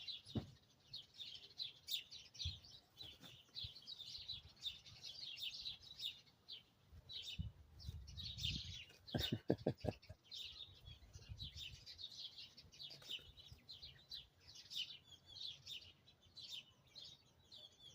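Faint birdsong: many small birds chirping in quick, irregular notes, with a short, lower pitched call about nine seconds in.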